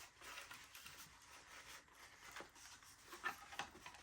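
Faint handling noise: light clicks and scrapes of foam and plastic parts as the wing spar is slid through an RC plane's fuselage, with a few sharper ticks near the end.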